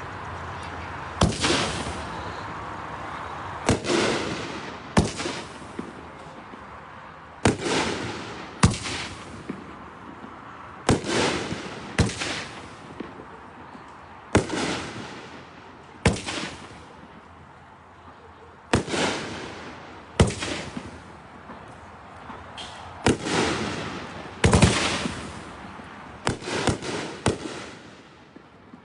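King Neon consumer fireworks cake firing: a series of sharp booms about one to two and a half seconds apart, each with a short fading tail, and a quick cluster of reports near the end.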